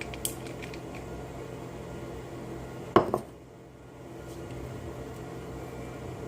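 Kitchen dishes and utensils being handled: a few light clicks in the first second, then a sharp double knock about three seconds in. A steady low hum runs underneath.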